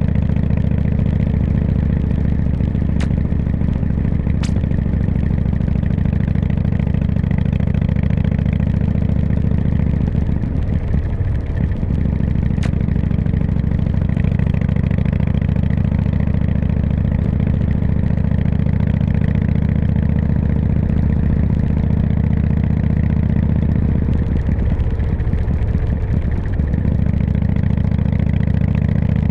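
Harley-Davidson V-twin engine running steadily under way, easing off briefly twice, about ten seconds in and again a few seconds before the end.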